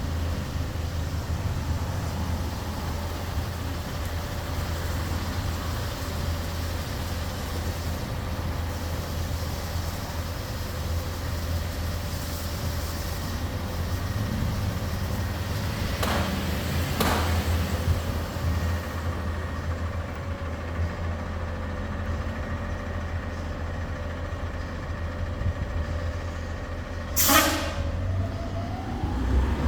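Garbage truck engine running steadily, with two short hisses past the middle and a loud, sharp air-brake hiss near the end, after which the engine pitch rises.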